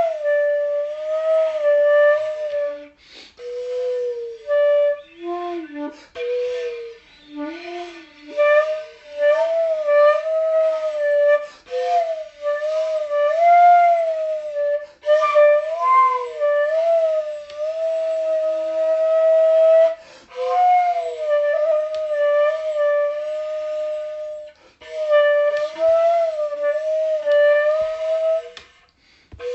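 Solo flute-like wind instrument playing a slow melody in phrases, with short pauses and some sliding between notes.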